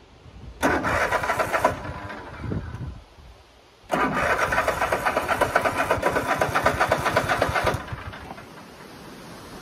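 Riding lawnmower's starter cranking the engine in two tries, a short one of about a second and then a longer one of about four seconds, with a fast even churning rhythm; the engine does not fire because the mower is out of gas.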